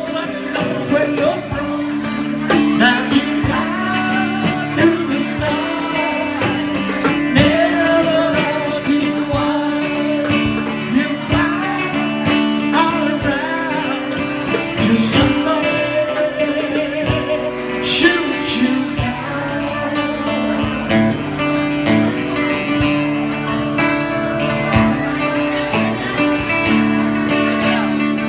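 Music: a song performed with strummed guitar chords under a sung melody.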